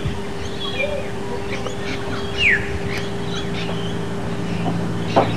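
Birds chirping and calling, with short falling chirps now and then. Near the end a vehicle's engine starts to be heard as a low hum.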